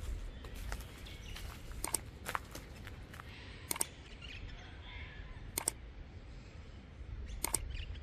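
Faint bird calls over a low steady rumble, cut through by sharp clicks, several of them in quick pairs, about every two seconds.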